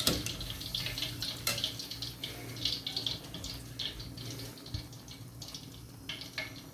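Water running and splashing in a kitchen sink, with irregular light clicks and clatter.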